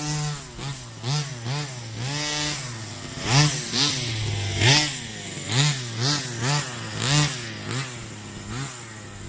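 Rovan Baja 45cc two-stroke engine revving in short repeated throttle blips, its pitch rising and falling with each one, about one and a half blips a second. The top-end mixture has been set a little leaner to make it rev higher.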